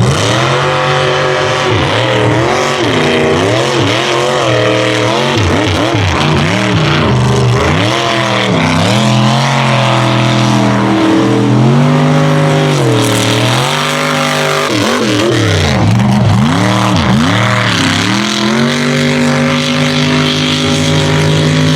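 Unlimited-class mega truck's engine running hard through the course, its pitch repeatedly dropping and climbing again as the throttle is lifted and reapplied. It holds a steady high-rev pull for the last few seconds.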